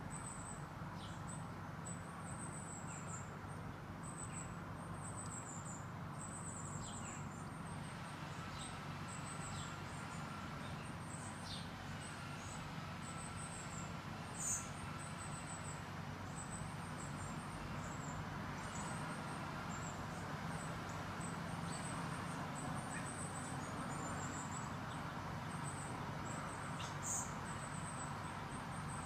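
Small garden birds chirping, with many short high-pitched chirps and calls over a steady low background hum. There is a sharp click about halfway through and another near the end.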